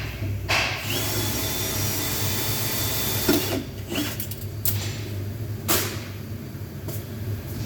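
Electric power window motor of a Scania truck running with a high whine for a couple of seconds, then several sharp clicks and knocks, over a steady low hum.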